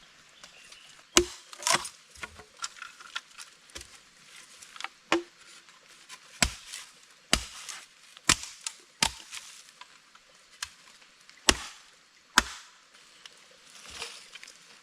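Firewood being chopped with a blade: about a dozen sharp, irregular strikes, a few of them much louder than the rest.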